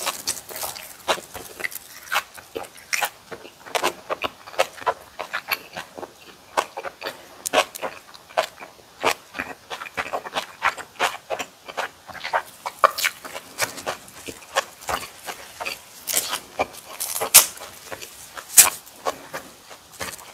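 Close-miked chewing of boiled pork belly and kimchi: irregular crisp crunches and wet mouth clicks, a few each second, with a couple of louder crunches near the end.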